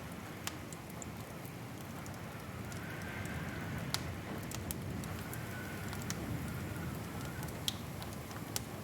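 Wood fire crackling in a fireplace: a steady low rustle of flames with scattered sharp pops and snaps.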